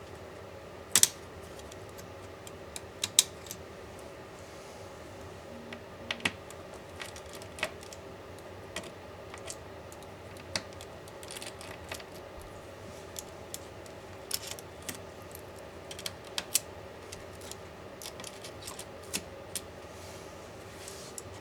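Irregular small clicks and taps of hand tools and small laptop parts being handled during a MacBook Pro teardown, the sharpest a quick double click about a second in and another about three seconds in. A steady faint hum runs underneath.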